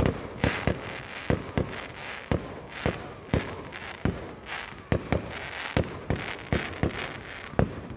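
Fireworks display: a rapid, irregular run of sharp bangs, two or three a second and some in quick pairs, with crackling hiss between them.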